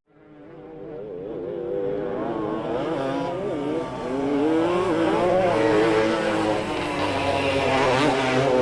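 A pack of vintage motocross motorcycles racing, several engines revving at once with pitches rising and falling as the riders work the throttles. The sound swells up at the start and grows louder about halfway through.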